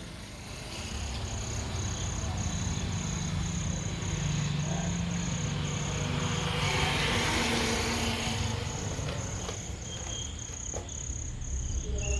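A cricket chirping steadily at about three chirps a second, over a low steady hum.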